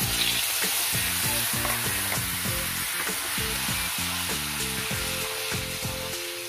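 Ground paste of garlic, shallots, lemongrass and galangal hits hot oil in a wok with a sudden loud sizzle, then keeps frying while it is stirred with a wooden spatula. The sizzle eases off a little towards the end.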